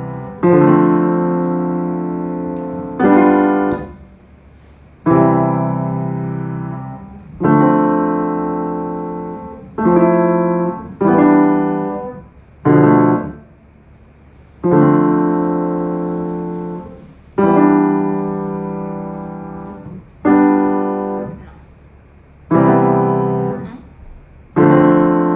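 Piano chords played slowly, about a dozen struck one after another, each held and left to fade before the next.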